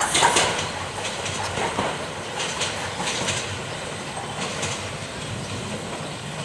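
Bangladesh Railway passenger coaches rolling past, their wheels clacking over rail joints in small groups of clacks. The sound fades gradually as the last coach moves away.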